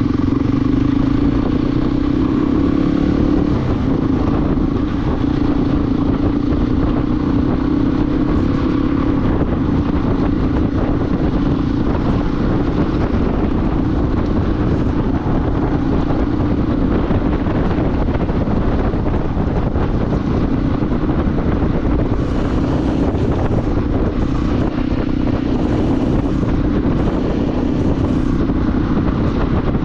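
Motorcycle engine running at a steady cruise, holding one even note, under a loud low rumbling noise.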